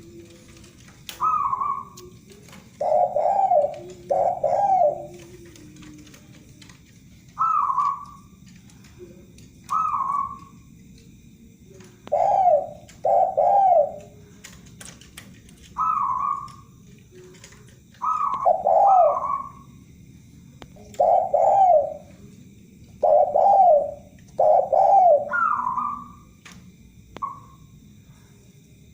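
Zebra dove (perkutut) and spotted dove (tekukur) cooing: repeated phrases every few seconds, each a higher coo followed by one or two lower, louder coos.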